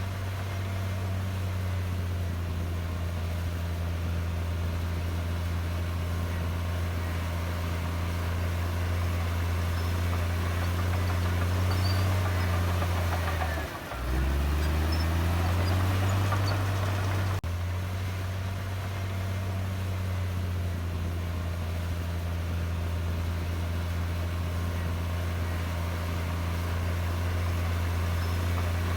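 Komatsu D58E bulldozer's diesel engine running steadily with a deep hum. About halfway through, the engine note drops sharply, then climbs back up.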